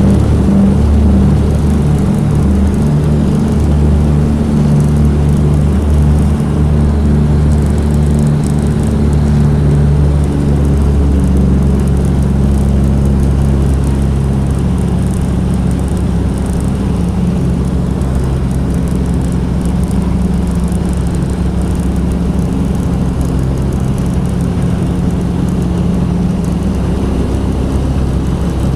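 The twin radial piston engines of a Douglas DC-3/C-47 running at takeoff power, a steady low drone that eases slightly in level and shifts a little in pitch about halfway through.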